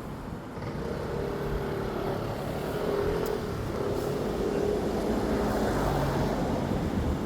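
Street traffic: a motor vehicle's engine running close by, getting louder about a second in and holding there, over the general road noise.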